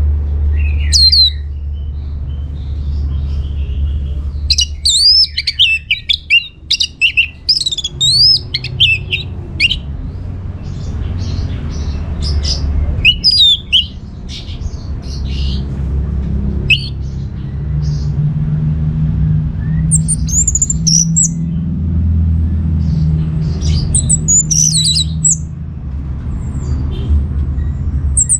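Orange-headed thrush singing in irregular bursts of rapid, varied whistled phrases, over a steady low hum.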